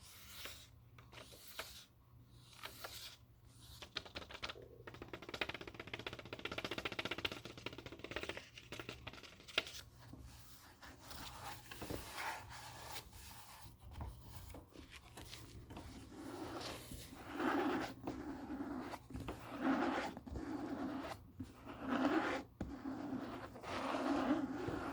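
Paper book being handled: pages turned and riffled with a dry rustling and crackling, then a run of regular brushing strokes about once every second or so near the end.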